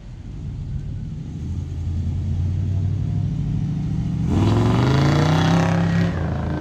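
A car engine running and growing louder as it comes closer, then revved hard about four seconds in. Its pitch climbs for nearly two seconds before the throttle comes off and it settles back to a lower rumble.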